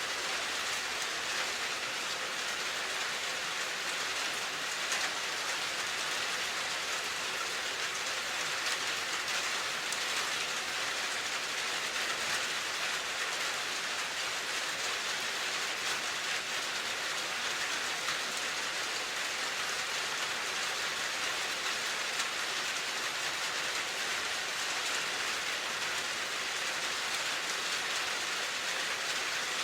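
Steady rain falling, an even hiss with the fine patter of drops on a surface.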